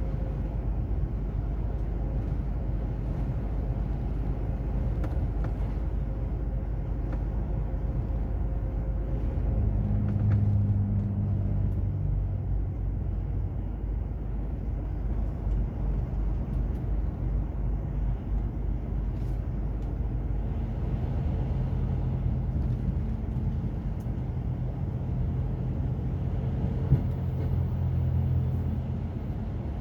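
Truck's diesel engine and road rumble while driving. The engine note grows stronger about ten seconds in and again from about twenty seconds, and there is a single sharp click near the end.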